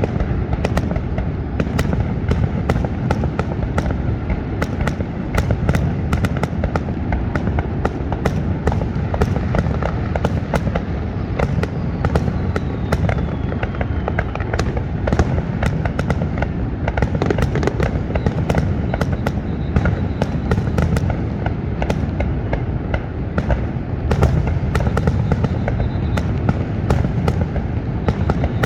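Fireworks finale: a dense, continuous barrage of sharp cracks and booms over a steady low rumble.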